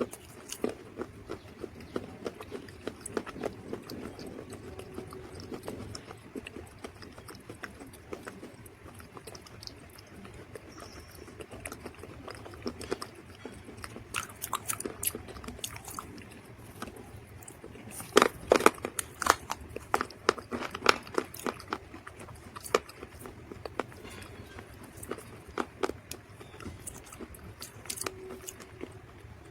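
Dry mud crunching and crackling up close in a dense run of sharp crackles, busiest and loudest about two-thirds of the way through.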